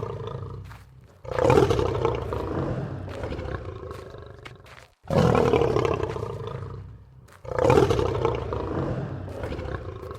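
Lion roaring: long, deep roars, each starting suddenly and fading away over a couple of seconds. One roar dies down at the start, then three more follow, about a second in, halfway through and near three quarters through.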